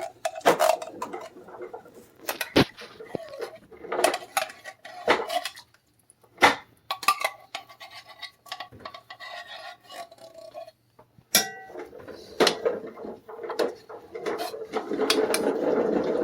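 Kitchen utensils and cookware knocking and clinking: a run of sharp knocks, with a few brief ringing clinks of metal.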